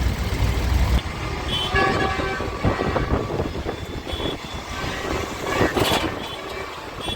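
Tractor horns tooting in several short beeps over engines running. A heavy engine rumble drops away about a second in.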